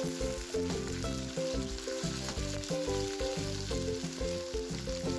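Raw chicken pieces sizzling in hot oil in a karahi, with background music playing a stepping melody over it.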